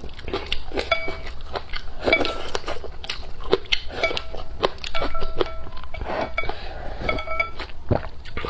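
Close-miked eating: chewing and biting with small crunches, mixed with repeated short clicks and clinks of utensils against a bowl, some of them ringing briefly.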